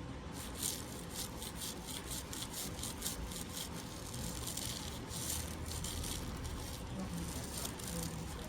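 Small brush rubbing and scratching inside an ear canal in a run of short, repeated scratchy strokes.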